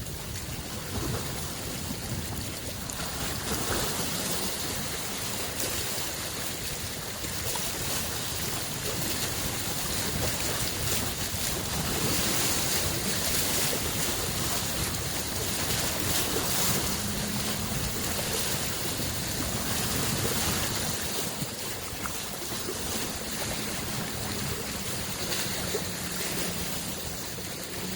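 Small lake waves washing and lapping on the shore in a steady, rolling noise. From a little past halfway, the faint low hum of a distant boat engine joins in under the water sound.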